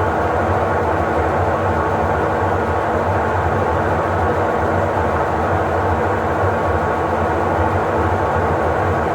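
Electrolux LTE08 top-loading washing machine spinning, a steady continuous hum and whir with no breaks.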